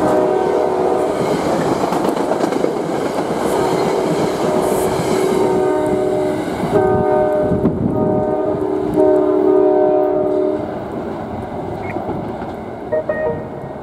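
A Metro-North Express commuter train passing at speed: coaches rolling by with wheel rumble and clatter over the rail joints, while the PL42AC locomotive's Nathan K5LA horn sounds long blasts as the train approaches the grade crossing. The rolling noise drops off about seven seconds in as the cab car goes by, and the horn stops about ten and a half seconds in.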